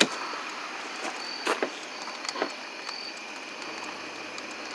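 A few sharp clicks and knocks over a steady hiss, with crickets chirping faintly about once a second.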